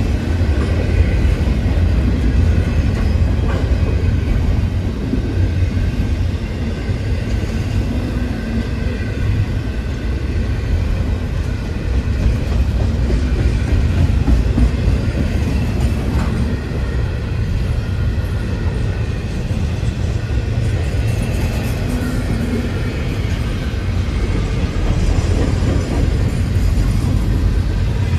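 Double-stack intermodal freight train's cars rolling past at a grade crossing: a steady, loud rumble of wheels on rail, with a noisy rattle over it.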